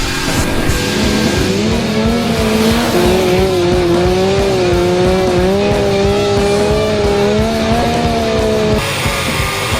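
A car drifting: engine running hard and tyres squealing in a long wavering tone that cuts off suddenly near the end, over background music.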